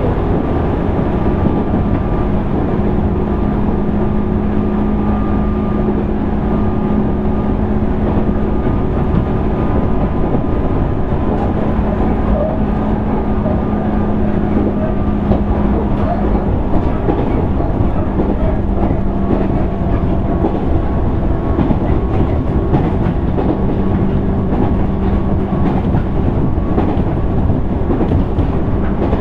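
Interior running sound of a JR East 205 series 600 subseries electric train's motor car on the move. A steady rumble carries a level hum that fades out and returns a few times, with light clacks from the rails, more of them in the second half.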